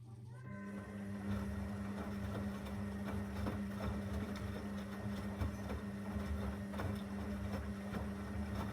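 Zanussi FL984CN washing machine's motor running with a steady hum that steps up in pitch about half a second in, then holds, with light irregular knocks and clicks from the drum.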